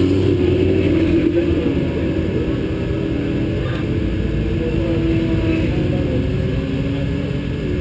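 Onboard sound of a vehicle engine running at speed on track, its pitch drifting down and back up with the throttle, over heavy wind rumble on the microphone.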